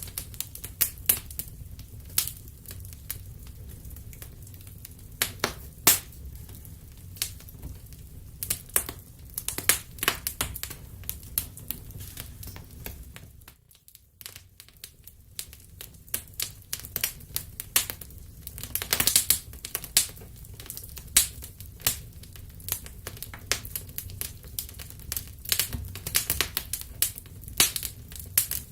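Wood fire crackling in a fireplace: irregular sharp pops and snaps over a steady low rumble of the flames, dropping briefly quieter about halfway through.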